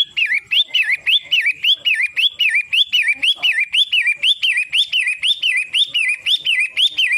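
Long-tailed shrike (pentet) calling: a loud, quick chirp that rises and falls, repeated evenly about two and a half times a second, then cut off abruptly at the end.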